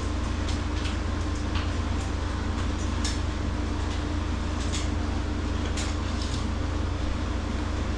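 Steady low hum of a walk-in meat cooler's refrigeration unit running, with an even tone over it and a few faint light clicks.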